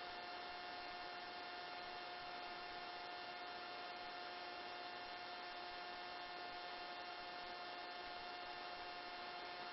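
Faint, steady electrical hum with a thin high whine. There are no engine or rotor sounds.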